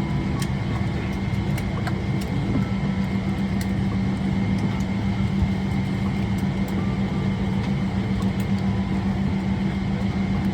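Steady cabin hum of a Boeing 777-300ER parked at the gate, the air-conditioning and ventilation running with a constant low drone and a thin high whine. Scattered faint clicks over it.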